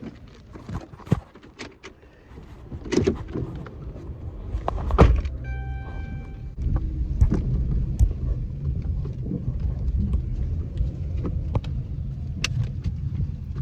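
Car handling noises: scattered knocks and clicks, then a heavy thump about five seconds in like a car door shutting. A brief electronic beep tone follows, then the car's engine and road noise run as a steady low rumble.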